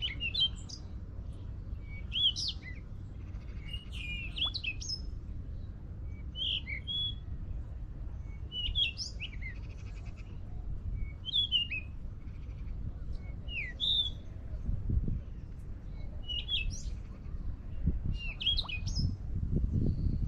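Small birds chirping, short quick calls that rise and fall, every second or two, over a steady low rumble.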